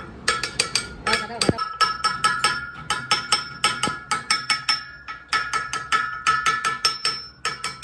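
Rapid hammering on a steel truck part, about four to five blows a second, each blow ringing with a clear metallic tone; the strikes pause briefly twice, about five seconds in and again near the end.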